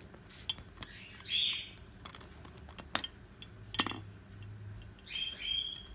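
Cockatiel giving two short chirps, one about a second and a half in and another near the end, with a few sharp clicks in between.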